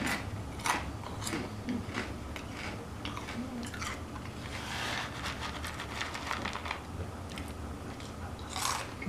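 Close-miked chewing and crunching of crunchy snack food, a string of irregular sharp crunches.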